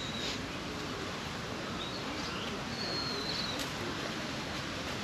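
Outdoor ambience: a steady background hiss with a few short, high whistled bird calls, one about two seconds in and a longer one around three seconds in.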